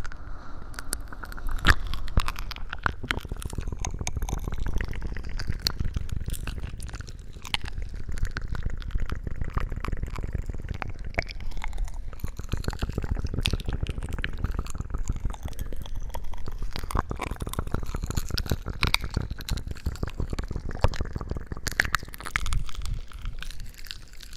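Close-miked wet crackling and squishing: a dense run of small clicks and pops over low thumps, continuing with only brief dips.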